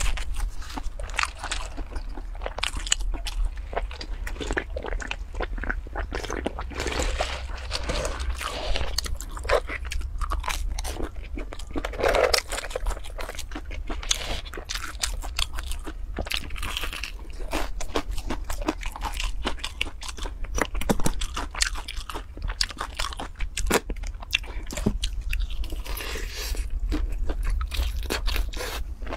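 Crispy fried chicken being bitten and chewed close to the microphone: a dense run of crunches and crackles from the breaded coating, going on without a break.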